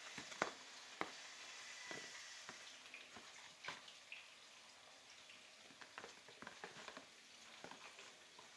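Eggplant slices shallow-frying in oil in a pan: a faint, steady sizzle with scattered crackles and pops. A couple of sharper clicks come in the first second or so.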